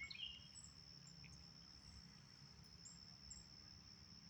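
Faint, steady, high-pitched insect trill, typical of crickets, with a brief chirp right at the start.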